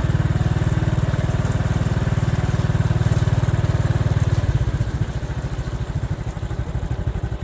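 A small engine running steadily with a rapid, even pulse; it drops a little in level about four and a half seconds in.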